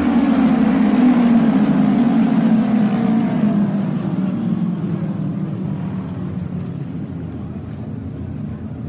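Autorace motorcycles running at speed on the track during the trial laps: loudest about a second in, then drawing away, with the engine note falling in pitch and fading over the second half.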